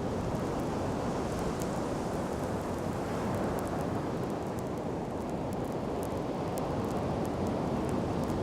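Wood bonfire crackling with scattered small pops, over a steady low rush of surf and wind.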